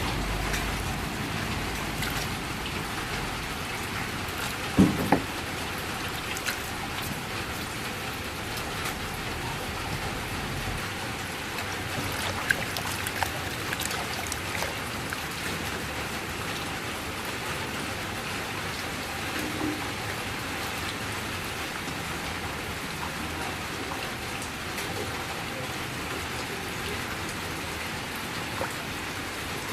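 Steady rain falling, with a couple of sharp knocks about five seconds in.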